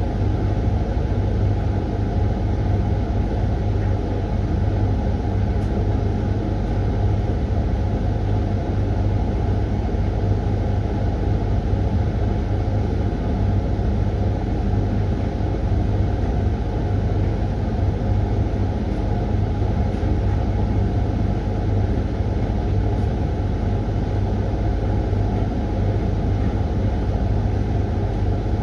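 Hoover laundry machine running its 20-minute Refresh cycle on lightly damp laundry: a steady, unbroken hum and rumble from the motor and turning drum.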